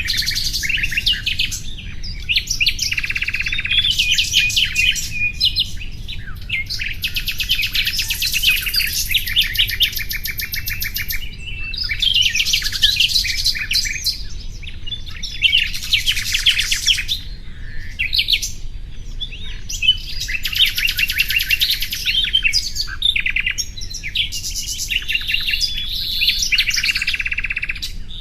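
Nightingale singing: a run of song phrases of rapid trilled and repeated high notes, each a second or two long, separated by brief pauses.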